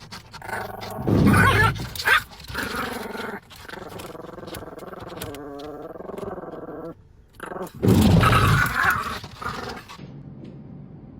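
A dog growling and barking in two loud outbursts, about a second in and again about eight seconds in, with quieter wavering vocal sounds between.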